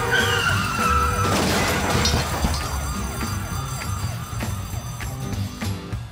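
Cartoon soundtrack: a fast, repeating siren-like warble over background music, fading toward the end. A falling whistle runs through the first second, and a crash comes about a second and a half in.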